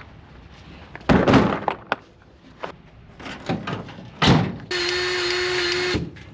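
A handful of separate knocks and thuds over about four seconds, then a steady mechanical whir that starts about four and a half seconds in and cuts off after about a second.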